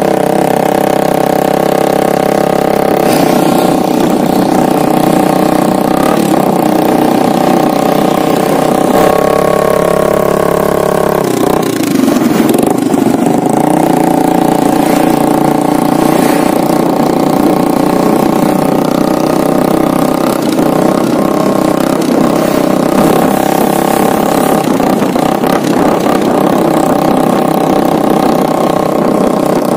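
Motorcycle engine running at fairly steady revs, its pitch dipping about eleven seconds in and then climbing back.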